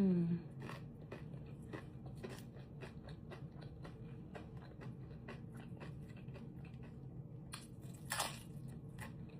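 Close-up eating sounds: biting and chewing a Buldak noodle taco, with many small crisp crunching clicks and a louder crunch about eight seconds in.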